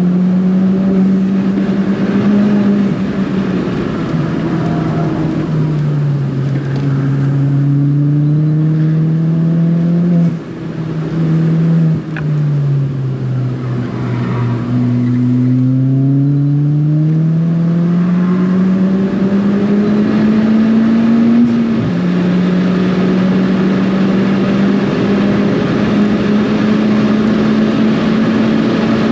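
Turbocharged Ford Fiesta ST's engine driven hard on track: its pitch climbs with the revs and steps down at gear changes, with a short drop in loudness about ten seconds in. After that it falls away and then climbs steadily again, and it holds at high revs near the end.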